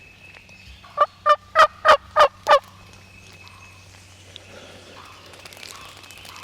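A series of six turkey yelps, evenly spaced at about three a second, loud and close. This is the hen-style yelping used to call toms during spring turkey hunting.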